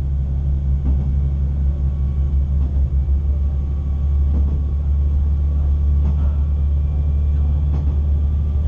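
Diesel railcar running along the line, heard from inside the cab: a steady low engine drone and wheel rumble, with a few faint clicks from the rails every second or two.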